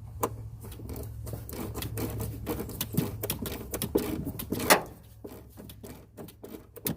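Irregular clicking and tapping of a hand tool and screws as the mounting screws are driven into a blower motor's housing, densest in the first five seconds, with one sharper knock just before the five-second mark.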